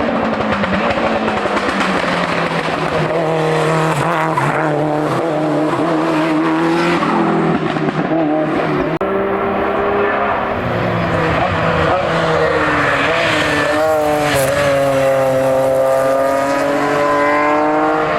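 Hillclimb race car engine running hard at high revs, its pitch dropping and climbing with gear changes, with a short break about halfway through and a long rising pull near the end.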